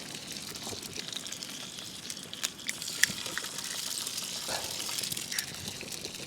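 Eggs and tomatoes frying in butter in a pan on a camp stove: a steady sizzle with a few sharp ticks, the loudest about three seconds in.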